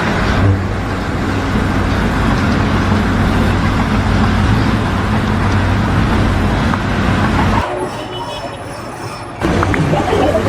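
A steady low mechanical rumble of a running engine or vehicle, which changes abruptly about seven and a half seconds in to a quieter sound with a few thin high tones, then changes again near the end.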